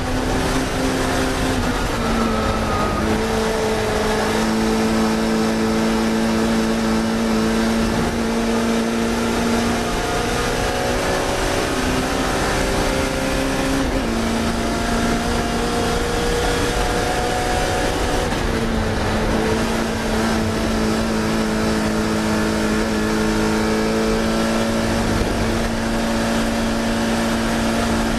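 Classic Mini racing car's BMC A-series engine running hard at high revs. Its pitch creeps up slowly and drops sharply a few times, at about two, fourteen and eighteen seconds in, as the car changes gear.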